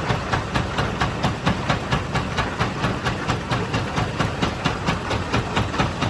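Mini stone crusher machine running, with a fast, even clatter of about four to five strokes a second over a steady low rumble.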